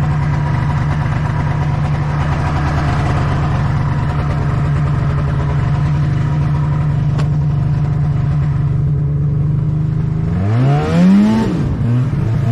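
Snowmobile engine running at a steady cruising speed, then revving up and dropping back about ten seconds in, with a second rev near the end.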